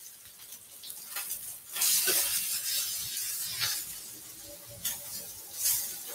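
Crumbed chicken tenders sizzling in a frying pan as they are turned with tongs. The sizzle swells suddenly about two seconds in, then eases off, with a few light clicks along the way.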